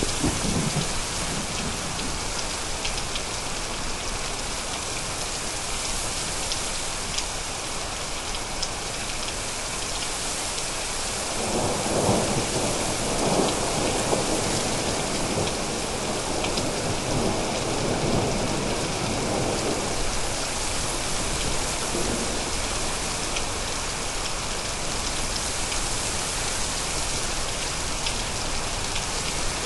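Steady rain with scattered drop ticks. About eleven seconds in, a long roll of thunder rumbles for around eight seconds in several swells, then fades back under the rain.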